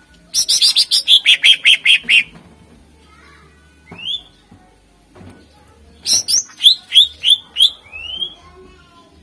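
Green leafbird (cucak ijo) singing: a rapid run of about a dozen sharp notes stepping down in pitch, a lone rising note, then a string of quick upslurred whistles trailing off into softer notes near the end.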